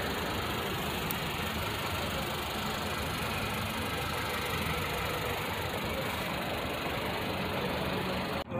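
Car engine idling steadily, an even, unchanging running sound.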